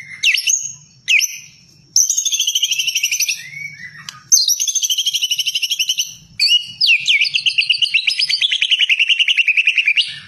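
White-rumped shama (murai batu) singing: a few short, sharp whistles, then from about two seconds in three long phrases of fast, evenly repeated notes, the last running about four seconds.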